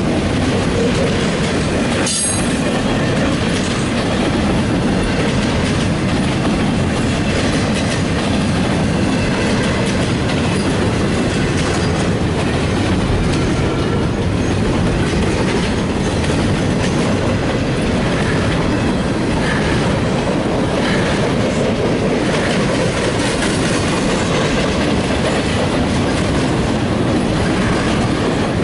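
Double-stack intermodal freight cars of a CSX train rolling past steadily, their wheels running over the rails, with one sharp click about two seconds in.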